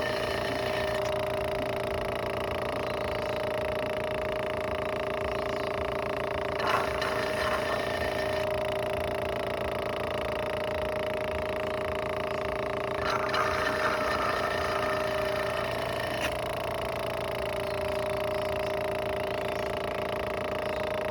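Small electric suction pump of a honey sucker running with a steady hum, used to draw honey from tiúba stingless-bee pots. Brief louder sounds break in about a third and two-thirds of the way through.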